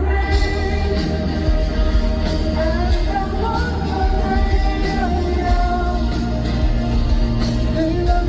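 Live pop-rock band performing a song with singing over a heavy, steady bass.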